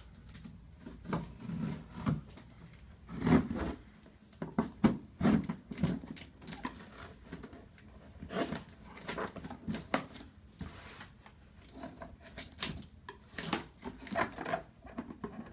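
A cardboard box being opened and its packaging handled by hand: irregular clicks, scrapes and rips of cardboard and packing.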